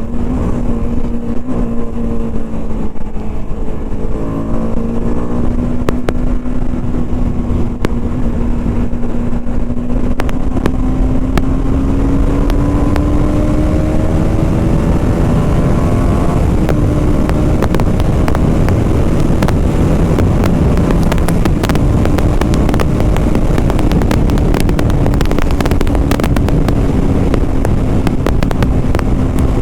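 BMW G 310 RR's single-cylinder engine running steadily under way, its pitch climbing slowly about halfway through and then holding. A steady rush of wind noise runs underneath.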